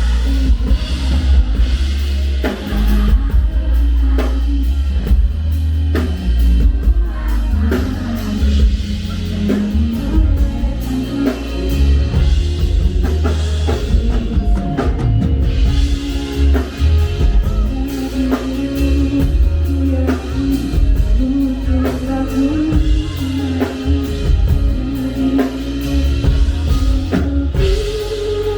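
Live band playing a pop ballad, drum kit and bass with a singing voice carrying the melody.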